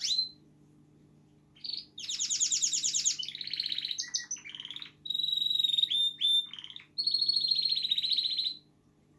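Male canary singing: a string of fast, high trills and rattling phrases with short pauses between them, stopping shortly before the end. The owner takes the song as a sign of a happy, healthy bird.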